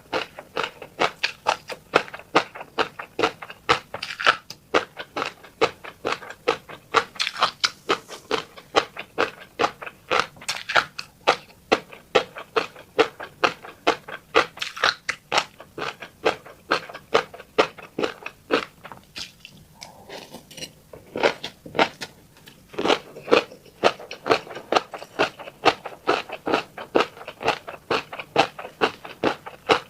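Close-miked chewing of fish roe: a rapid run of crisp clicks and pops, several a second, with a pause of about two seconds past the middle.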